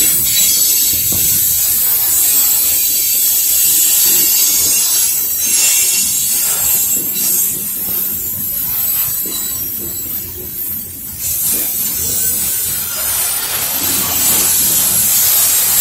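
Freight train's coal cars rolling past, steel wheels running on the rails with a steady rumble under a high hiss; it eases off a little about two-thirds of the way through.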